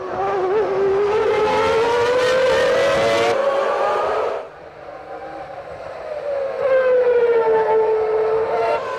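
Formula One car's three-litre racing engine at high revs, its pitch climbing steadily for about four seconds before it cuts off suddenly. A second engine note follows, dropping in pitch and then holding steady near the end.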